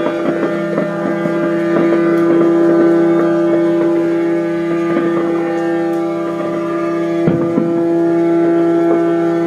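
Many ship horns sounding at once in a sustained chord of steady tones at different pitches, the strongest a mid-pitched note, with faint scattered crackles.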